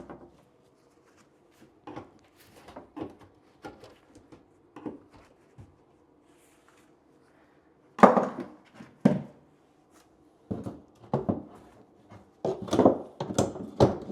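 Wooden knocks and clunks from working on an old bathroom vanity cabinet to free it. Scattered light knocks give way to two loud sharp knocks about eight and nine seconds in, then a quick run of clattering knocks near the end.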